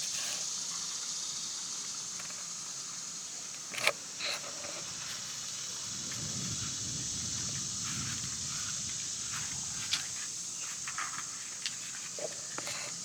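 Outdoor ambience dominated by a steady, high-pitched insect chorus, with a sharp click about four seconds in and a few light knocks and handling sounds later.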